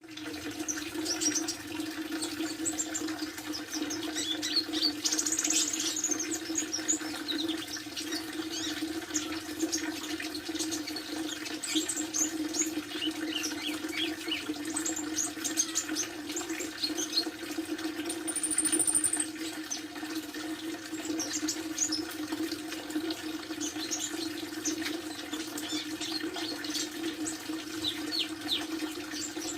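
Kolibri ninja sunbird chirping: many quick, high, short calls scattered throughout, with a brief higher whistle a little past the middle. A steady low hum runs underneath.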